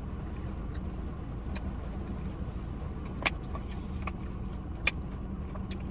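Heavy rain falling outside over a steady low hum, with two sharp clicks about three and five seconds in.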